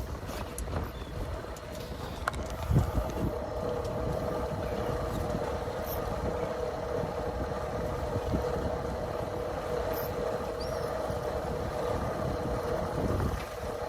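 Boat's outboard motor running steadily, a constant hum with a low rumble underneath, and one dull thump about three seconds in.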